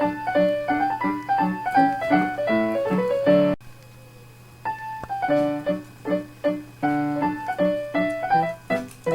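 Background piano music, a run of quick notes that breaks off about three and a half seconds in and starts again about a second later.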